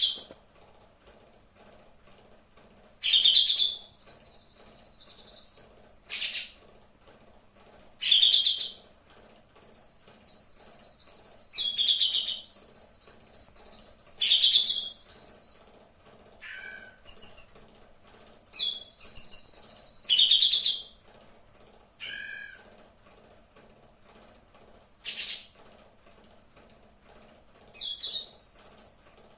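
A caged kapas tembak songbird calling: short, loud, sharp high-pitched calls repeated every two to three seconds, some with quick rattling notes, with thinner high sustained notes between several of them. A low steady hum runs underneath.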